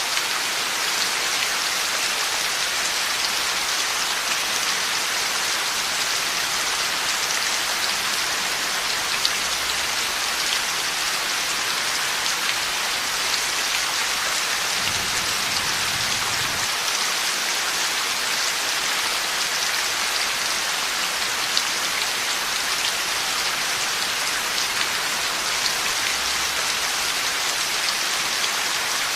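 Heavy rain falling steadily: an even, unbroken hiss of rain on surfaces.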